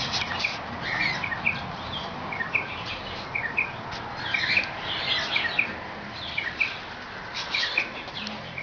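Small birds chirping: many short, high chirps, scattered and overlapping.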